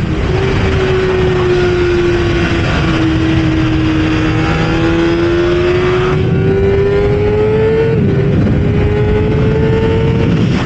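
Kawasaki ZX-6R inline-four engine pulling hard at high revs. Its pitch sags a little, then climbs steadily. About eight seconds in it breaks briefly at a gear change and climbs again, over heavy wind rush from riding speed.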